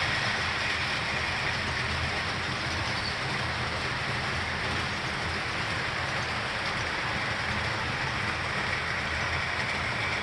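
Several HO-scale model subway trains running on the layout: a steady whir of their electric motors and wheels rolling on the track.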